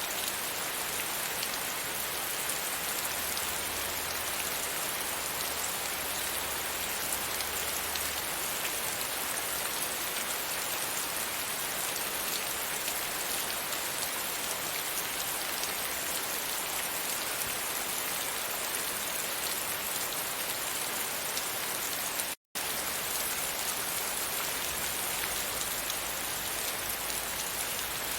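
Steady rain pattering against a windowpane, an even hiss with no let-up; the sound cuts out for a split second about three-quarters of the way through.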